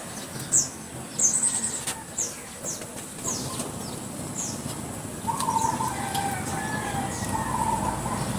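Small birds chirping: short, high, falling chirps repeated about twice a second. From about five seconds in, a wavering mid-pitched tone joins them.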